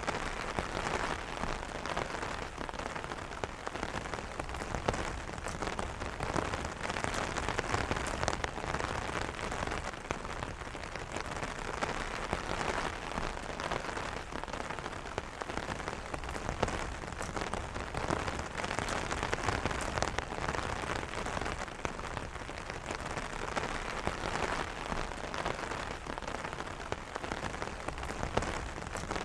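Steady light rain pattering on an umbrella canopy, a dense hiss of many fine drop taps.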